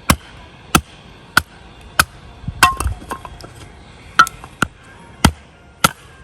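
Repeated sharp knocks, about ten at a fairly even pace, some followed by a brief metallic ring, like a hammer or blade striking something hard.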